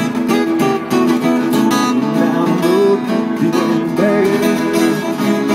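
Acoustic guitar strummed in a steady rhythm, with a melody line over it that bends in pitch: the instrumental gap between sung lines of a live folk song.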